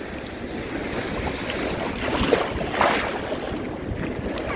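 Sea surf washing around a person standing in the water, with wind buffeting the phone's microphone; a louder rush of water about three seconds in.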